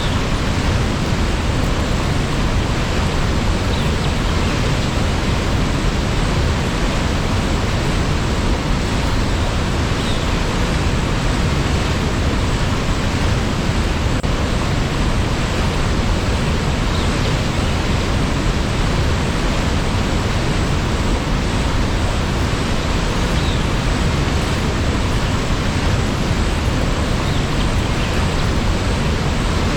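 Steady rushing of a waterfall, an even constant roar of falling water.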